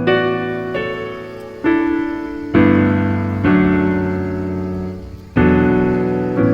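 Background piano music: slow chords, each struck and left to ring and fade.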